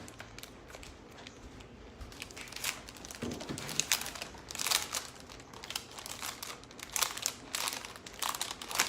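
Plastic transfer sheets crinkling as they are handled and shuffled: a quiet start, then from about two seconds in a run of irregular sharp crackles.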